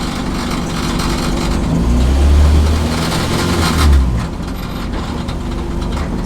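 A car engine running with a low drone that swells louder about two seconds in and again around four seconds in.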